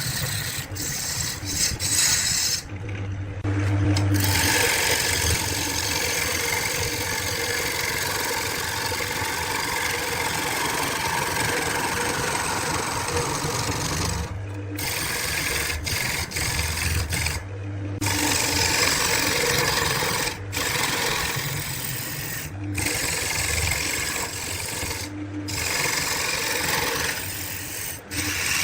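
Wood lathe running with a turning tool cutting the spinning wood: a continuous scraping hiss over the motor's low hum, broken by several brief drops to silence.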